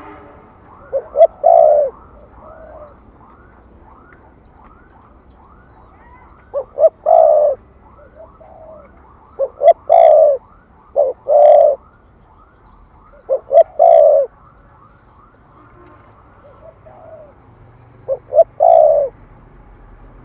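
Spotted dove cooing in the 'thổ thúc gù' style: about six phrases, each two short notes followed by a longer one, repeated every few seconds. Fainter, rapid repeated notes sound between the phrases.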